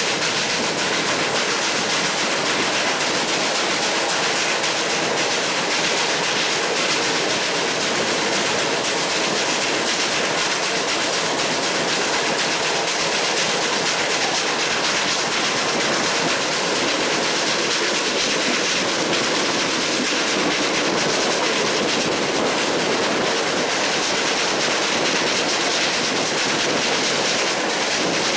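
Passenger train running at speed, heard from a carriage window: a steady rushing noise of wheels on rails.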